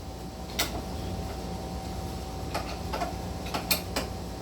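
A few short, sharp clicks of a tool working the screw on a metal awning mounting bracket as it is loosened, over a steady low hum.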